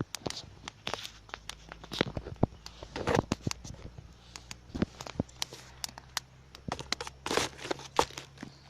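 Small fire of dry sticks crackling, with irregular sharp snaps and pops and a few longer crackling bursts as the wood catches and throws sparks.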